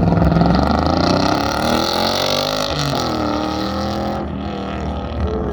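Race truck's engine running hard through an autocross course, its pitch rising and falling as the driver accelerates and lifts, with a dip and pick-up about three seconds in.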